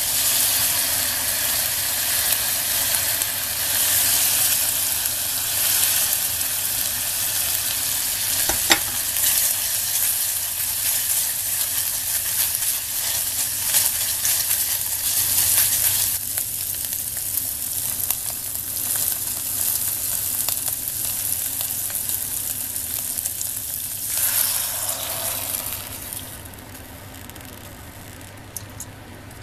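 Minced pork and onion sizzling and frying in an earthenware clay pot while being stirred with chopsticks. One sharp click comes about nine seconds in. The sizzle drops away to a much quieter hiss near the end.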